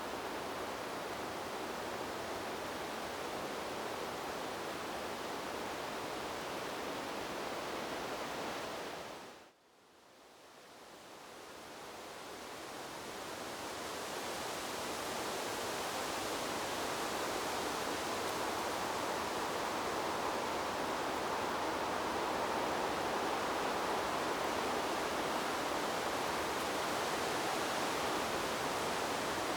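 Steady, even rushing noise of wind through trees. About nine seconds in it fades quickly almost to silence, then swells back over the next several seconds and holds steady again.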